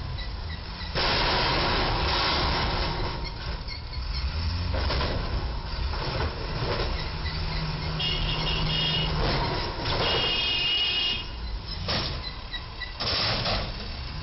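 Road traffic noise of vehicles and tyres, growing suddenly louder about a second in, with a brief high-pitched tone sounding twice around the middle.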